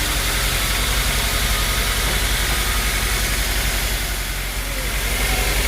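Sawmill machinery running steadily: a low, even mechanical hum with a broad hiss over it, dipping briefly about four and a half seconds in.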